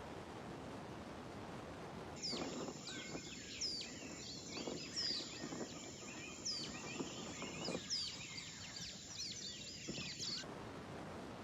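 Birds calling, with many short, sharp notes that sweep downward, over a steady background hiss. The bird calls start abruptly about two seconds in and stop abruptly near the end.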